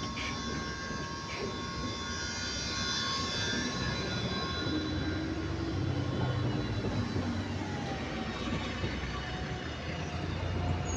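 Electric bus running, heard from inside: several steady whine tones held on a constant pitch fade away over the first few seconds, then low drive and road rumble grows, with a faint falling whine near the end.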